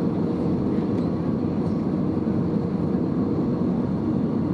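Steady cabin noise of an Airbus A320neo heard from inside the passenger cabin: an even, low rumble of the engines and airflow with a faint steady hum.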